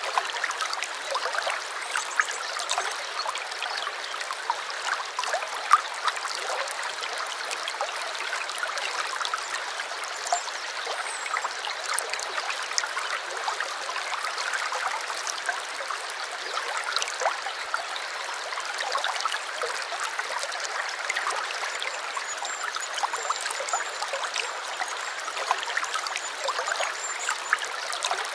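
A brook trickling and babbling steadily, a constant rush flecked with many small splashes. A faint high wavering call comes in over the water in the later part.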